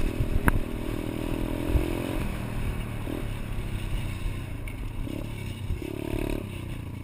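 Pit bike engine running, its tone fading after about two seconds and coming back briefly near the end, with scattered knocks and clatter and a sharp click about half a second in.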